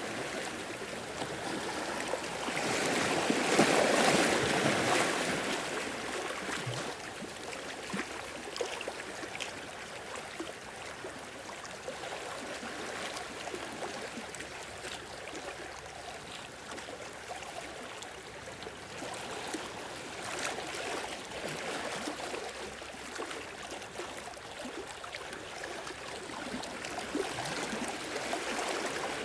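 Sea waves washing in and draining back on the shore. One wave surges loudest about four seconds in, and another comes around twenty seconds in.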